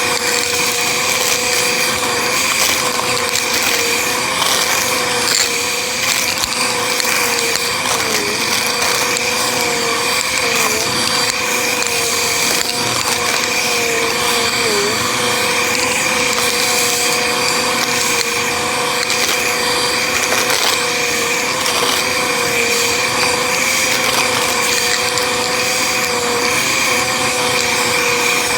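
Bissell vacuum cleaner running steadily with a motor whine and rushing air. The pitch dips briefly a few times, around 8, 11 and 15 seconds in.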